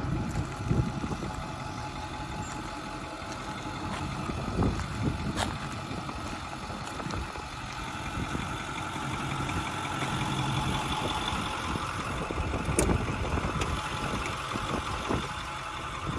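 Ford F350 Super Duty truck engine idling steadily, with a few sharp clicks over it.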